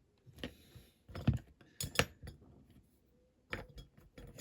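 Small tools and parts being handled on a workbench: a series of light, irregular clinks and taps of hard objects set down and picked up.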